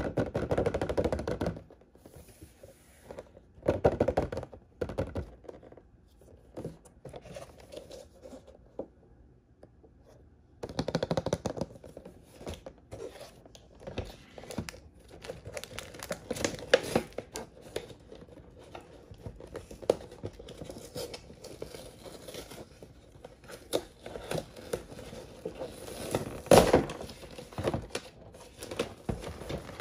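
Toy packaging being torn open and crinkled by hand, in irregular bursts of tearing and rustling, with the loudest tears at the start, about four seconds in, around eleven seconds and shortly before the end.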